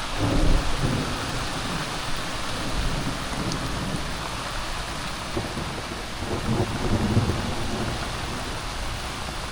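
Heavy downpour of rain hissing steadily, with thunder rumbling low. The rumble swells about half a second in and again around seven seconds.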